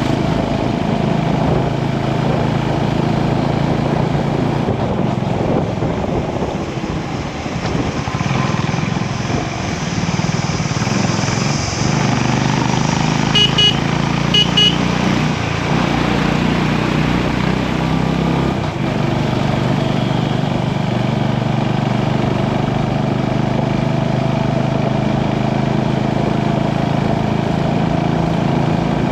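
Motorcycle engine running steadily while riding on the road, with road and wind noise. Two short high beeps sound about halfway through.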